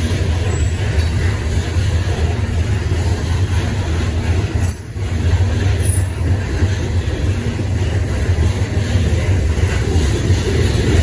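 Freight train rolling past: a steady low rumble of wheels and cars on the rail, with two brief high wheel squeals about five and six seconds in.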